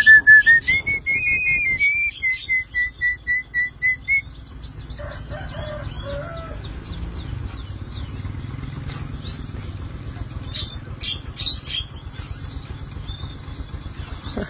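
Tame Javan myna calling: a loud run of rapid whistled notes, about four a second, for the first four seconds, then quieter scattered chirps and clicks.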